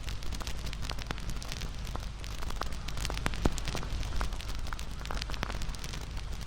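Wood fire burning with dense, irregular crackling and popping over a steady low rumble of flames.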